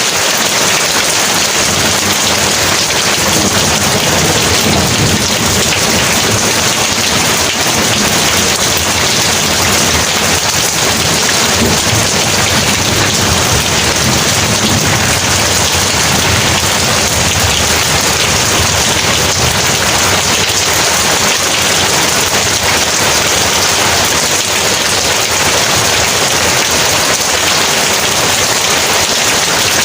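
Heavy rain falling steadily in a constant hiss, with a low rumble of thunder through roughly the first half.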